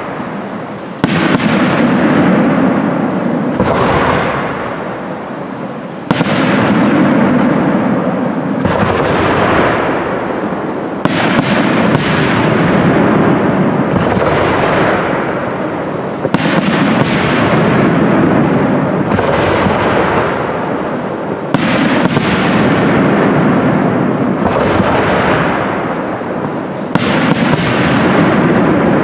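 Aerial firework shells bursting overhead: about ten heavy bangs, often in close pairs a half-second apart, every four to five seconds, each trailing off in a long rolling echo.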